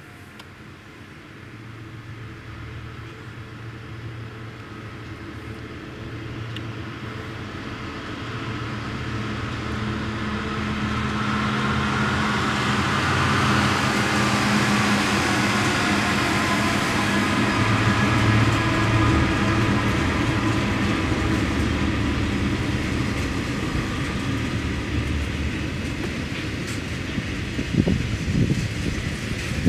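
Freight train passing at speed: the engines of two diesel locomotives grow louder as they approach, with a gliding whine and steel-wheel rail noise at its peak about halfway through. The wagons then roll by, with a few sharp clanks near the end.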